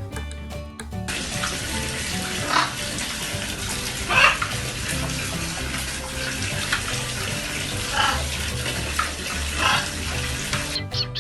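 Steady hiss of running water that starts about a second in and cuts off shortly before the end, with a few short, sharp sounds over it, the loudest about four seconds in. Light background music plays underneath.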